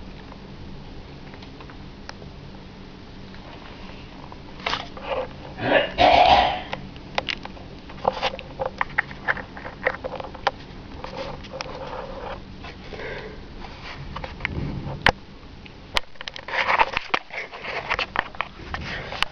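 A cat sniffing right at the camera's microphone, with scattered taps and knocks as it touches the camera. The loudest sniffing comes about six seconds in and again near the end.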